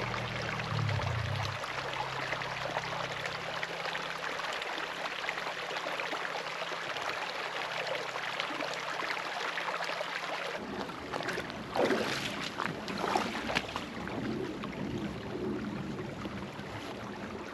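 Small creek flowing, a steady rush of water. Background music fades out in the first second or two, and from about ten seconds in a few short knocks and splashy handling sounds rise over the water.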